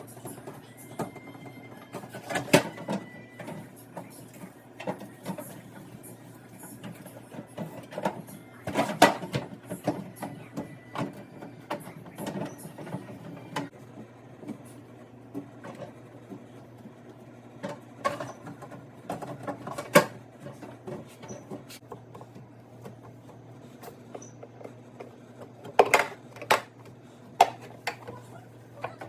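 Scattered clicks, knocks and clatter of household items and fittings being handled while a refrigerator is cleaned out, over a low steady hum.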